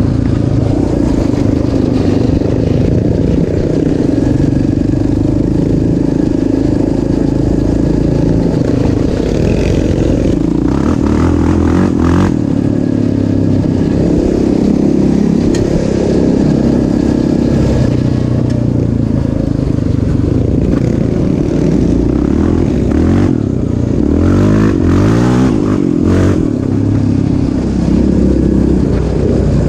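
Off-road vehicle engine running hard, its pitch rising and falling as the throttle is worked, with quick rev sweeps about a third of the way in and again near the end.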